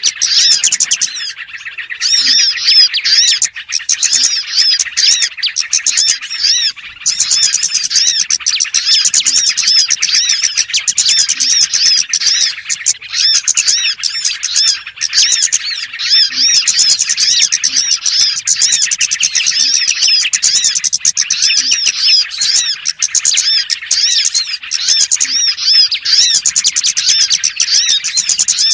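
Small-bird lure recording (burcil pikat call): many small songbirds chirping and twittering rapidly and densely, high-pitched, with brief lulls about a second and a half and six and a half seconds in.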